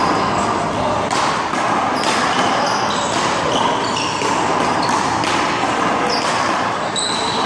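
Handball rally in a one-wall game: sharp smacks of the ball off hands and the wall, about one a second, over steady background noise with faint voices.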